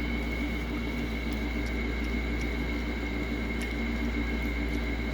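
Steady background hum and hiss, unchanging throughout, with a few faint short clicks.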